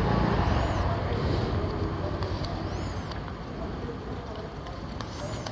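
Roadside traffic rumble that fades over the first few seconds as a vehicle passes. Three short high chirps come through it, near the start, in the middle and near the end.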